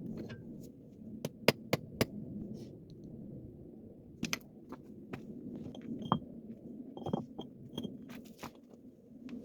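Irregular sharp clicks and knocks, the loudest few close together about a second and a half in and more scattered later, over a steady low background rumble.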